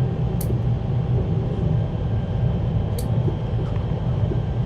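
Steady low rumble inside the passenger car of a CRH1A-A high-speed train running at speed. Two short, sharp high-pitched ticks cut through it, one about half a second in and another about three seconds in.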